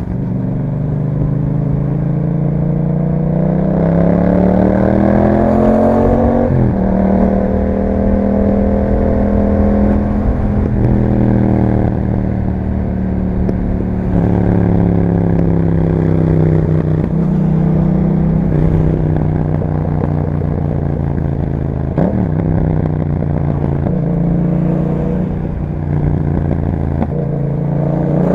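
Yamaha MT-07's parallel-twin engine breathing through an aftermarket Akrapovic exhaust under riding load. It revs up through a gear for about six seconds and drops sharply at an upshift. It then settles, pulls up and eases off several more times.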